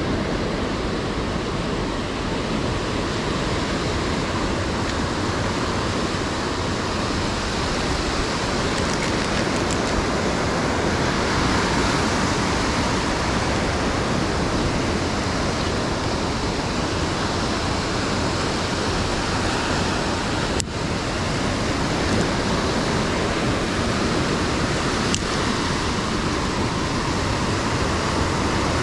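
Ocean surf breaking and washing ashore: a steady rushing noise that swells and eases, with a single sharp click about two-thirds of the way through.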